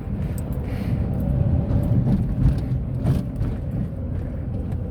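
Tata Nano driving, heard from inside the cabin: a steady low rumble of engine and road noise.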